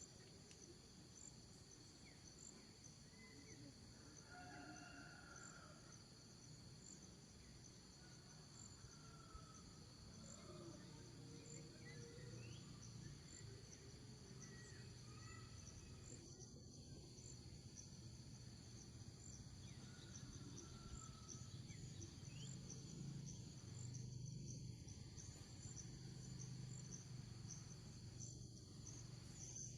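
Faint chorus of insects such as crickets: several steady high trills with a fast regular pulse, over a low rumble that grows a little louder in the second half.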